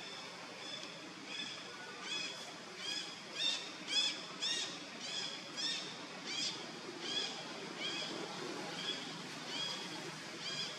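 A bird calling a steady series of short, high chirps, about two a second, each note dropping in pitch; the calls swell louder about four seconds in, then fade.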